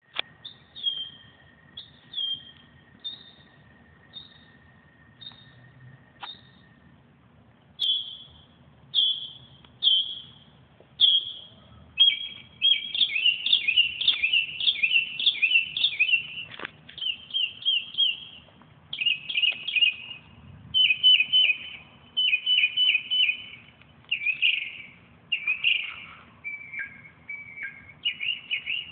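A bird calling: short chirps about once a second at first, then from about halfway in, faster, louder runs of rapid chattering notes.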